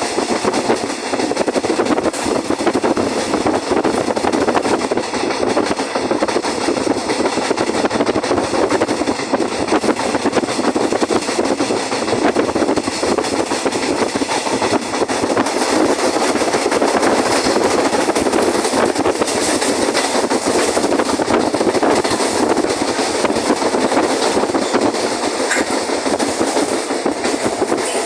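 Urquiza line electric commuter train heard from inside the car while running along the track: a steady rolling noise with a busy run of clicks from the wheels on the rails.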